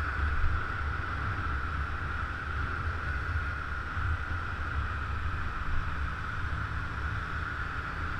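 Scooter running at a steady cruising speed, with a constant drone and wind rumbling on the microphone.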